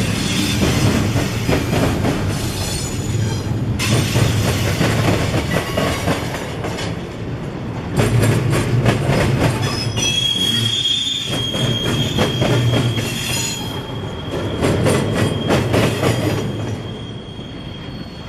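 Freight train cars rolling past, the wheels clicking over rail joints again and again, with a thin high wheel squeal setting in about halfway through; the sound fades slightly near the end.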